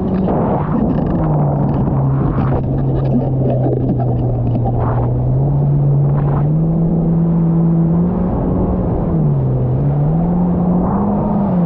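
Jet ski engine running under way, its pitch dropping early on, climbing back up past the middle and dipping briefly near the end as the throttle changes, over a steady low rumble.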